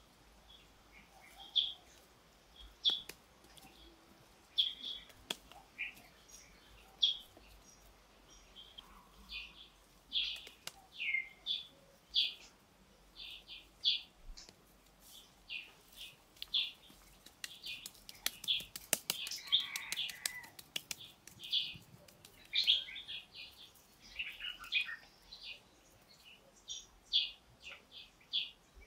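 Small birds chirping, a steady string of short high calls, with scattered faint clicks.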